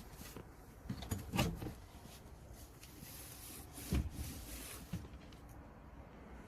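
A few soft knocks and thumps over faint background noise: a cluster about a second in, a sharper knock near the middle and a lighter one just after.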